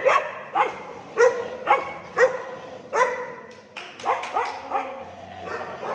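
Dog barking repeatedly in short barks, about two a second, a little quieter after about three seconds.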